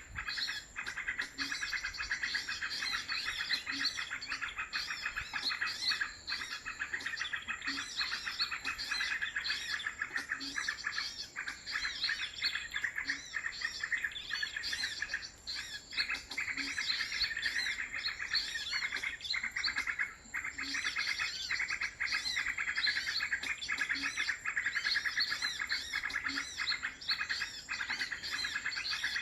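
Many small birds chirping and twittering continuously in a dense chorus of quick, high calls.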